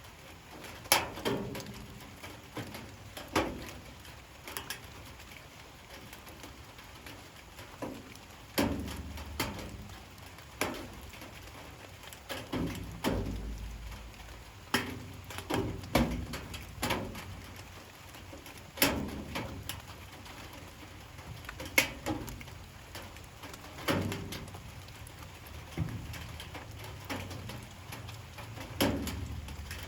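Light rain with water dripping irregularly onto a hard surface, sharp single taps about once or twice a second over a faint steady patter.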